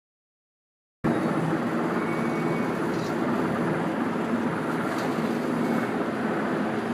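Coast guard helicopter hovering over a ship's deck: a steady, loud wash of rotor and engine noise, starting suddenly about a second in.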